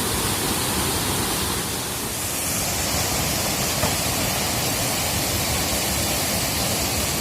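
Waterfall rushing: a steady, loud wash of falling water with no break.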